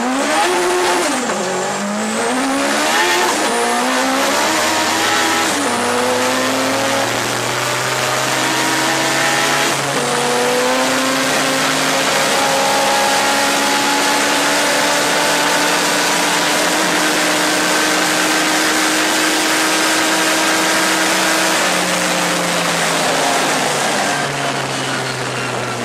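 Mitsubishi Evo's turbocharged 2.0-litre four-cylinder accelerating hard through the gears, heard from inside the cabin. The engine pitch climbs and drops back at four quick upshifts in the first ten seconds, then rises slowly for a long stretch under a heavy rushing noise. It falls away near the end as the car comes off the power.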